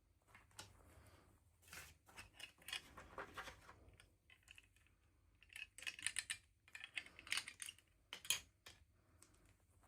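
Hands handling small plastic toy parts and packaging: quiet, quick clicks and crinkles in two clusters, the sharpest click near the end.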